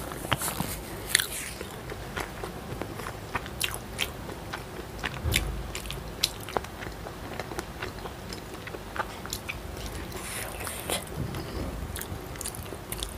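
A person chewing food close to a clip-on lapel microphone: irregular wet mouth clicks and smacks.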